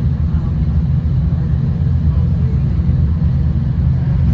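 Steady low rumble of a V/Line diesel train under way, heard from inside the carriage, with an even engine drone.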